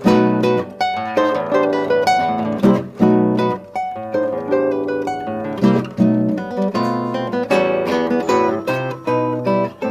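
Acoustic guitar playing a run of plucked and strummed notes and chords, with frequent sharp attacks.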